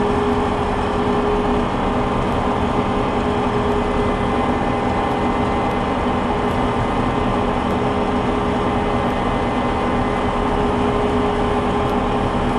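A small combine harvester running steadily while cutting soybeans, its header and threshing drum engaged, heard from inside the cab. An even mechanical drone with constant humming tones that does not change.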